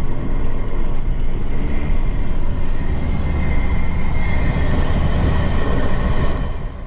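Steady low rumble of a vehicle driving along a road: engine and tyre noise, with a faint steady whine, easing off near the end.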